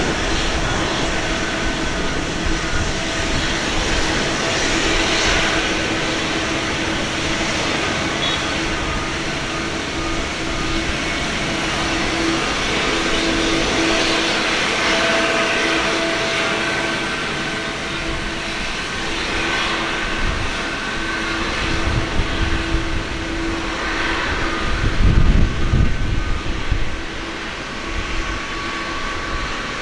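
Jet engines of a Boeing 767-300ER at takeoff power, a steady roar with a few held tones running through it. Heavier low rumbles come in near the end.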